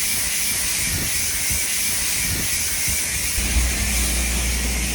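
Steady high hissing of a Dirt Devil handheld steamer running. A low steady hum joins in about three and a half seconds in.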